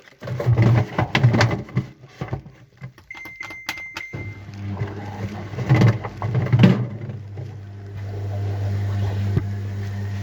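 Washing machine: a short electronic beep with a few clicks about three seconds in, then its motor starts and hums steadily for the rest of the time, with a couple of knocks along the way.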